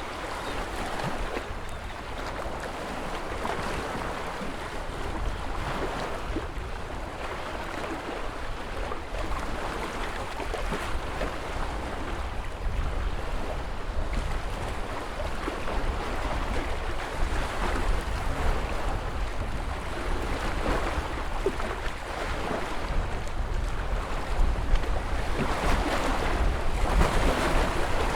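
Ocean surf washing in continuously, in slow swells with a louder surge near the end, over a low rumble of wind on the microphone.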